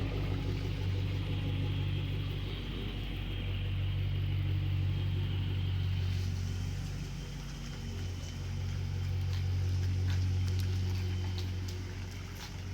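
Straight-piped Dodge Durango's exhaust droning low and steady while driving, easing briefly about two seconds in, again about halfway through, and near the end.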